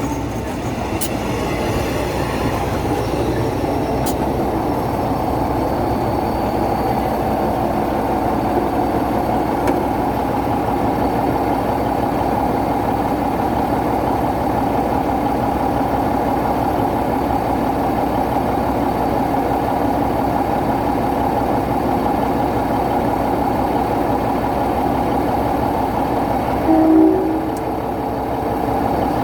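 Diesel-hauled passenger train running past at a station, a steady engine and rail noise throughout. A short horn toot sounds near the end.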